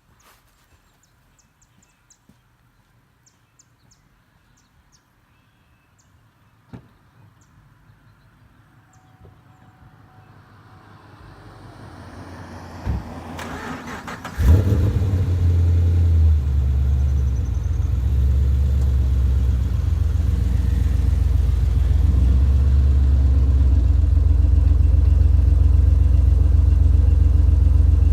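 Chevrolet Camaro SS 6.2-litre V8 starting up about halfway through, freshly refilled with oil, and settling into a steady, deep idle. Before it starts there are faint clicks and a rising noise.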